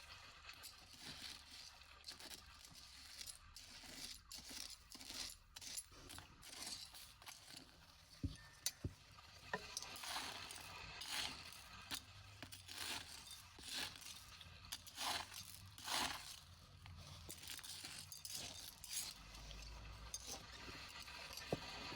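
Hands sorting through beach litter: repeated scraping and rustling, with a few sharp clinks about eight to ten seconds in and again near the end.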